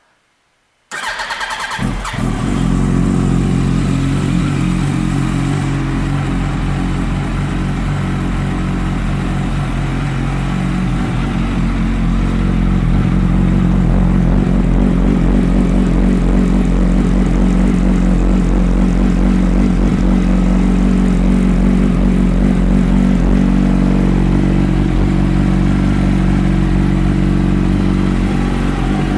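2007 Yamaha YZF-R1 inline-four with GYTR twin exhaust started about a second in: the starter turns it over briefly, it catches, and it settles into a steady idle that gets a little louder about twelve seconds in.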